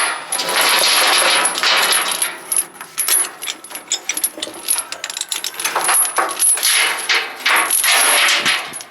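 Steel tie-down chain and chain binder being worked, with repeated metallic clinking and rattling of the links and hardware.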